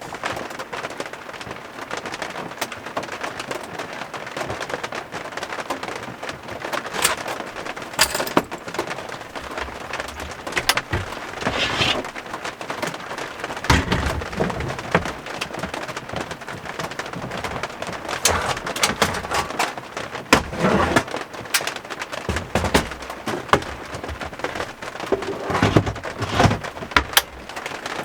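Heavy rain falling on a camper van's roof, a steady dense hiss full of sharp drop hits, with irregular heavier surges and low thuds now and then.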